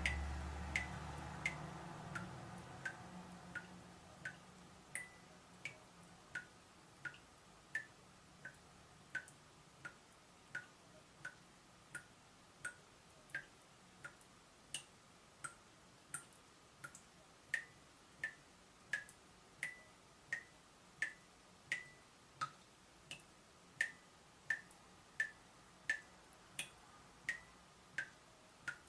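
Water dripping steadily from a leaking tap, about one drop every 0.7 seconds, each a short plink. A low rumble fades away over the first few seconds.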